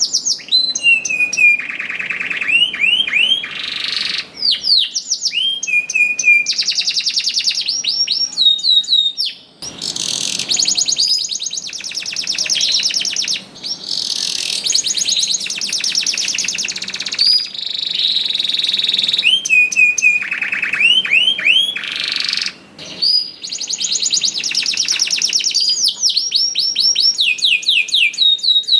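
Domestic canary singing a long, continuous song of rapid trills and quickly repeated sweeping notes, pausing briefly twice.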